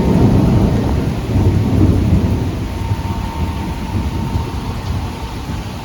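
Thunder rolling after a lightning flash: a loud low rumble that begins at once, swells again about two seconds in, then slowly fades, over steady rain.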